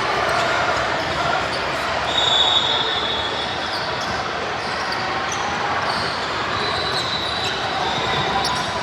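Basketball game noise in a gym: a ball bouncing and short high sneaker squeaks over steady crowd chatter.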